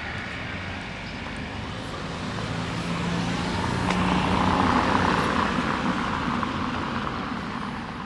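A car driving past on the street. Its engine hum and tyre noise swell to a peak about halfway through, then fade away again.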